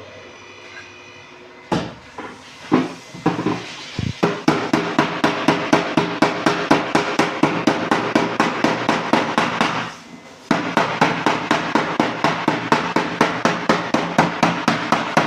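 Hammer beating on car body sheet metal during dent repair: a few scattered blows, then a fast, even run of sharp strikes at about three to four a second, with a brief pause partway through.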